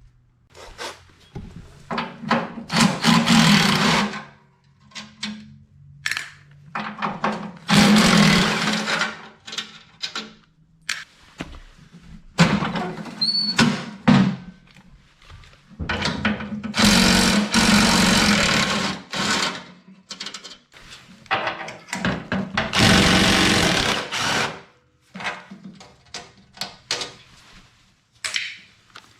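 Impact wrench hammering bolts loose on the wood chipper, running in about five spells of one to two seconds each, with clinks and knocks of tools and parts between them.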